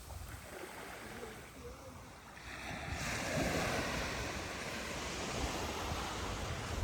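Andaman Sea surf on a beach: a wave breaks and washes up the sand, swelling about two and a half seconds in and staying loud, with wind rumbling on the microphone.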